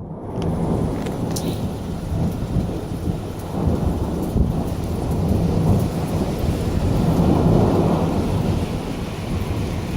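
Rolling thunder rumbling without a break and swelling to its loudest about three quarters of the way through, with rain falling.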